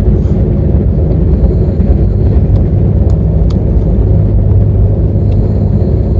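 Passenger train running: a loud, steady low rumble with a few faint clicks.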